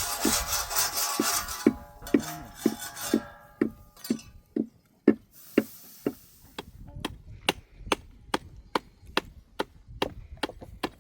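Steady, evenly spaced knocks of something striking wood, about two a second, repeated as in a rhythmic manual task. Background music fades out over the first few seconds.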